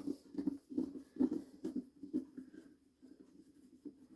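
Screwdriver turning screws out of a vacuum cleaner's casing: a run of short scratchy creaks, about two a second, fainter near the end.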